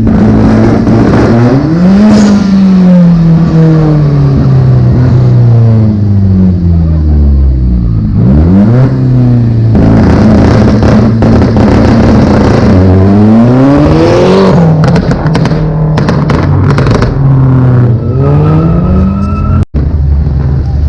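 A car engine revved hard over and over, its pitch climbing and dropping repeatedly, with a run of sharp crackles in the second half.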